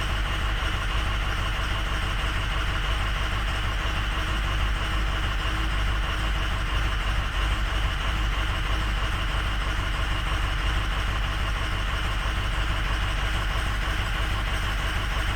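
Ford 6.0 Powerstroke V8 turbo-diesel idling steadily.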